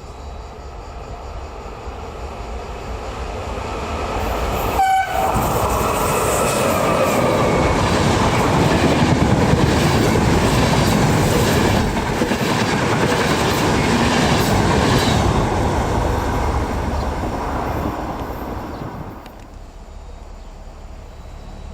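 A train passing through a station, the rumble building as it approaches, with a short horn blast about five seconds in. Wheels clack over the rail joints while it goes by, and the noise drops away sharply near the end.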